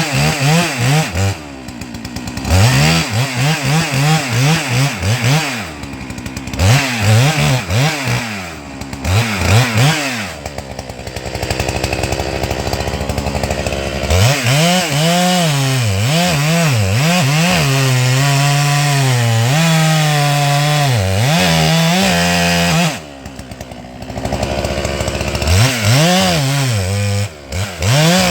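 Holzfforma 395XP two-stroke chainsaw with a 24-inch bar cutting into a large white pine trunk. The engine revs up and sags under load, with its pitch swinging up and down. It eases off to a low idle several times, longest for a few seconds about ten seconds in.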